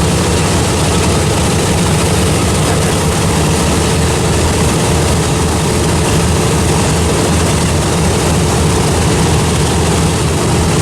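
Radial piston engines of a World War II bomber running loud and steady with a deep, even drone as the plane gets ready to take off.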